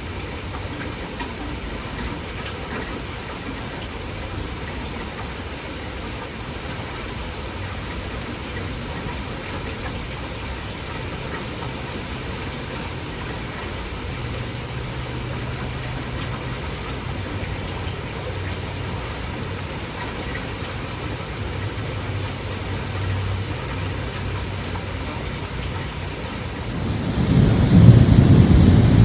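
Steady heavy rain with faint low rumbles of thunder. Near the end, a loud low thunder rumble swells up and is the loudest sound.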